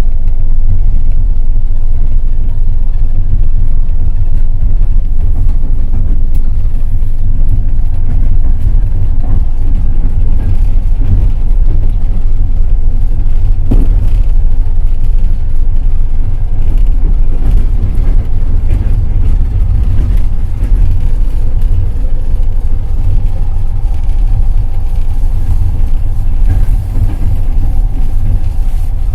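Passenger train running at speed: a loud, steady low rumble of the wheels on the rails, with occasional knocks and one sharper knock about halfway through.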